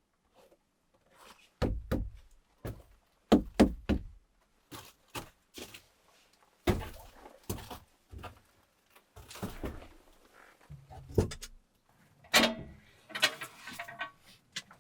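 A string of irregular knocks and thuds from things being handled and set down in a small room, the loudest in a cluster a couple of seconds in, with a brief squeaky scrape near the end.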